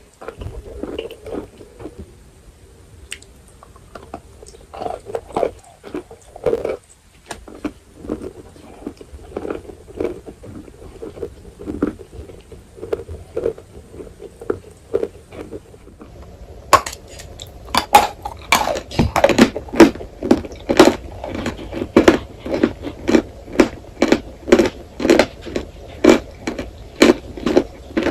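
Close-miked chewing of dry edible chalk, a steady run of crunchy chews. It starts soft, then about two-thirds of the way in turns into louder, crisper crunches at about two a second.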